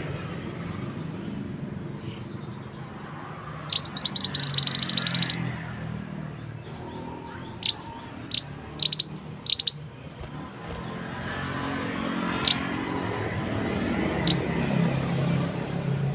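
A mantenan songbird calling: a fast chattering trill of rapid high notes about four seconds in, then a string of single sharp high chirps spaced a second or two apart, over a steady low background hum.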